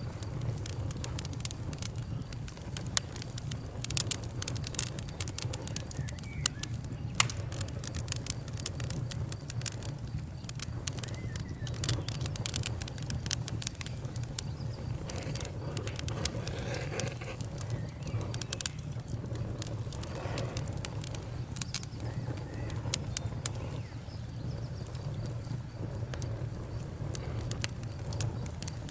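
Wood fire crackling: frequent sharp pops and snaps over a steady low rumble.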